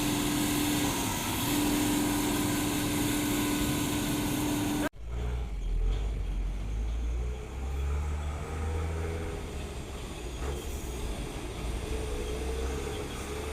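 Truck engine working under load: a steady pitched drone for about five seconds, then an abrupt break and a deeper, uneven low rumble.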